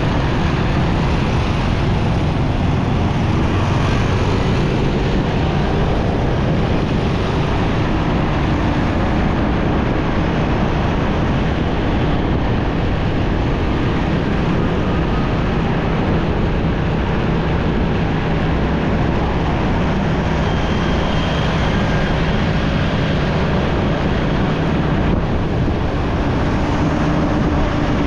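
A motorcycle running at a steady road speed, its engine hum mixed with steady wind noise on the microphone and the sound of surrounding traffic.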